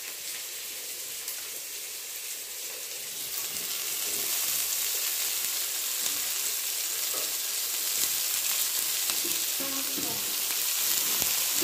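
Onions, green chillies and curry leaves sizzling in hot oil in a kadai as handfuls of shredded cabbage are dropped in; the sizzle grows louder a few seconds in.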